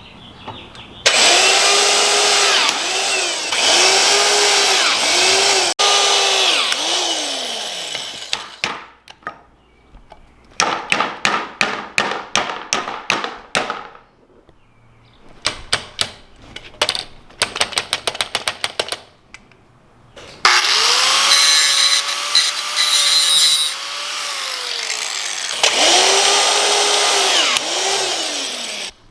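Handheld power drill spinning a rake, run in repeated bursts as the trigger is squeezed and released, its motor whine rising, holding and falling each time over a loud scraping wash. Between runs come two trains of rapid sharp clicks.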